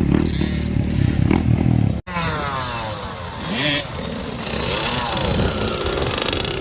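Two-stroke KTM 50 minibike engine running hard as it is ridden, with an abrupt cut about two seconds in. After the cut the engine note falls in pitch several times. The silencer needs repacking, which makes the exhaust sound horrible.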